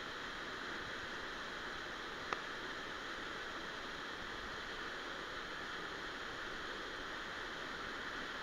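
Steady rush of a waterfall's falling water. A single sharp click comes a little over two seconds in.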